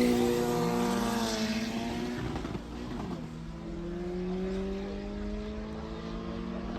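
A car's engine fading as it pulls away after a loud pass. About three seconds in, a fainter engine note comes in, rising slowly in pitch.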